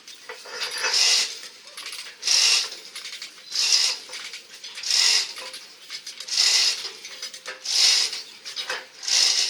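Rhythmic rasping or scraping strokes, one about every second and a half, like hand work on metal.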